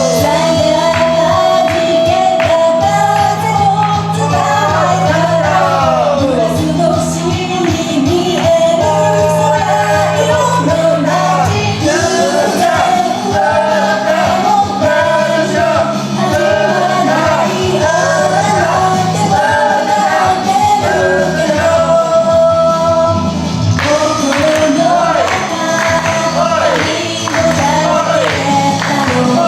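Upbeat Japanese idol pop song: a female voice singing the melody over a loud backing track with a steady, pulsing bass.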